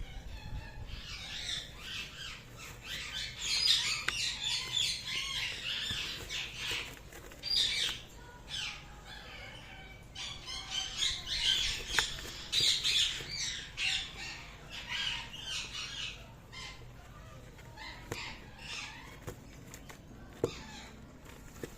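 Indian ringneck parrots squawking and chattering in rapid runs of short, high calls. There are two long bouts, from about a second in to eight seconds and from ten to sixteen seconds, then only scattered calls and clicks.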